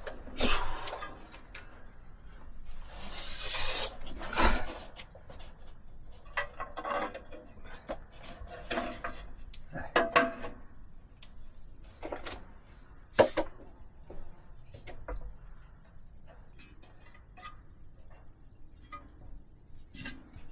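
Hand work on wood or stone: irregular scraping and rubbing with scattered knocks, the sharpest knock about thirteen seconds in.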